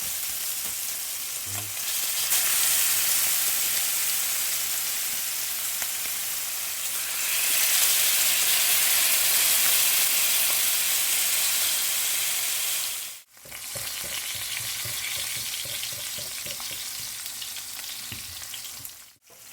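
Seasoned bar jack fillets frying in hot oil: a steady crackling sizzle. It grows louder twice in the first half, breaks off abruptly about thirteen seconds in, then carries on more quietly.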